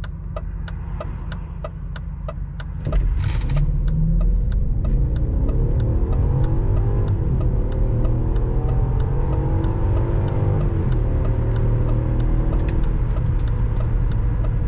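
BMW X5 E53 4.4i's V8 on petrol, heard from inside the cabin, cruising and then floored about three seconds in: the revs climb steadily, drop at a gearshift of the automatic gearbox about eleven seconds in, and climb again. A regular ticking, a few ticks a second, runs underneath.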